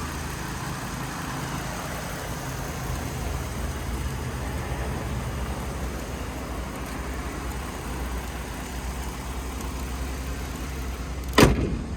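The 3.7 L V6 engine of a 2014 Ford F-150 idling steadily, with one loud thump near the end.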